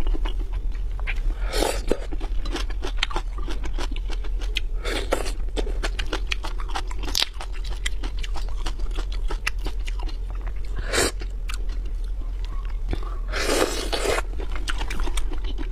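Close-miked chewing and biting of seafood: dense small wet clicks, with a few louder crunching bites about 2, 5, 11 and 13 seconds in.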